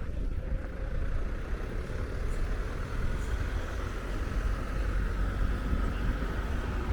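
City-centre street ambience: a steady low rumble with a faint humming tone that grows in the second half.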